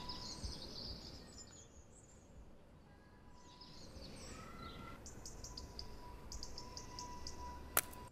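Small birds chirping and trilling over a low outdoor rumble, with one sharp click near the end.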